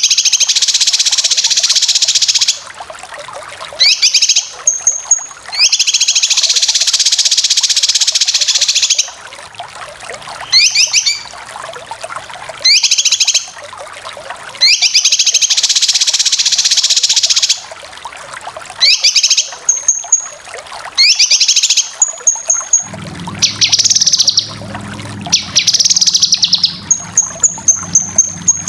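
Cucak kinoy calling: long harsh rasping 'besetan' calls of about two to three seconds each, alternating with short quick rising whistled notes. A low hum comes in near the end.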